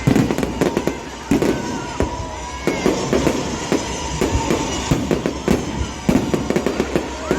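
Fireworks going off in a rapid, irregular series of bangs and crackles.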